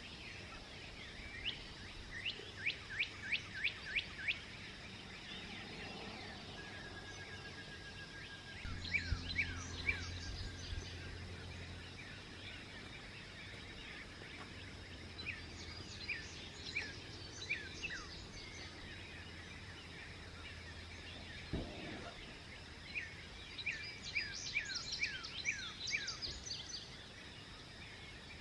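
Birds singing at dawn: a songbird repeats a song of quick, downward-sweeping chirps four times, with a steady faint hiss behind it. A low hum comes in about nine seconds in and fades out after about twenty seconds, and there is a single soft thump about three-quarters of the way through.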